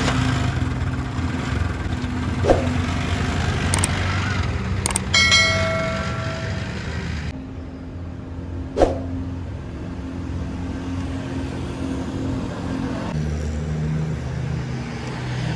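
Roadside traffic with a steady engine hum, broken by a few sharp knocks and one ringing metallic tone that lasts about two seconds, about a third of the way in.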